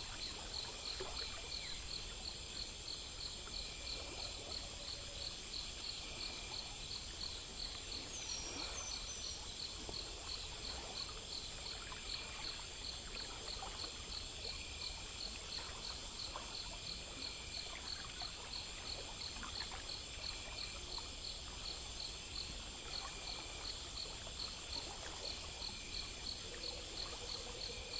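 Night insect chorus of crickets: a steady high buzz with fast, even chirping over it, and faint trickling water beneath.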